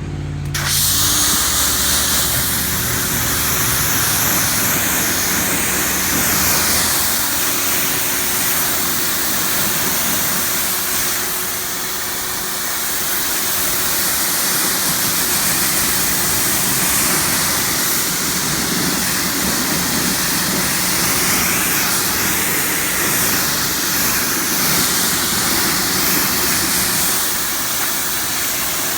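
Pressure washer with a low-pressure rinse nozzle spraying water to rinse car-wash foam off a truck. It is a steady loud hiss of spray over the machine's running hum, and it starts suddenly.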